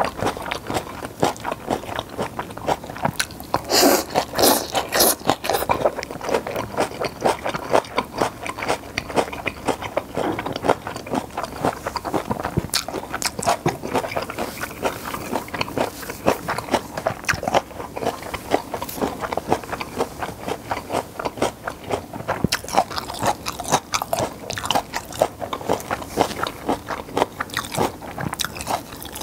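Close-miked eating sounds of japchae and steamed flower buns: continuous wet chewing and biting with many small mouth clicks, and a louder cluster of bites about four seconds in.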